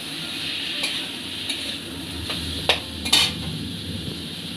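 Ridge gourd and potato pieces sizzling in spiced oil in a wok while a metal spatula stirs them, scraping and clicking against the pan about five times; the loudest knocks come a little past halfway.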